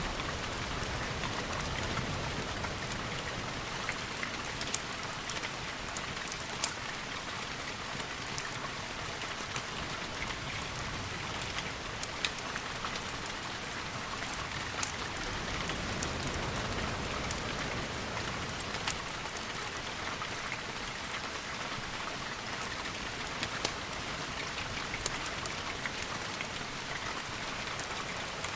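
Steady rain, an even hiss with scattered sharp ticks and pops through it.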